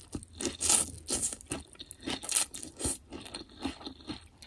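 Close-miked mouth sounds of a person chewing a first bite of a vermicelli bowl, with wet crunching and crackling in irregular bites several times a second.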